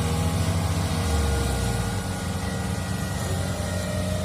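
Kubota DC70 Plus combine harvester's diesel engine running steadily.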